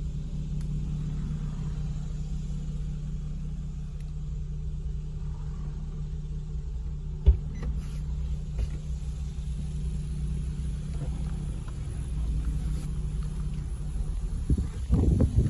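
2014 Infiniti Q60 convertible's 3.7-litre V6 idling steadily, with a single sharp click about seven seconds in and some louder uneven rumbling near the end.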